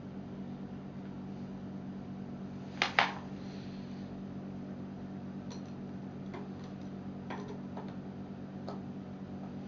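Steady low hum with a sharp double click of hard objects knocking about three seconds in, then a few lighter clicks and taps.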